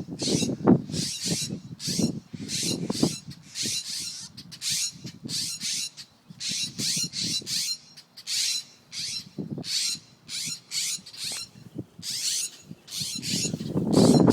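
Two parent birds giving harsh, rapidly repeated alarm calls, about two a second: agitated scolding at a dog that has found their fledgling. Low rustling underneath, loudest in the first few seconds.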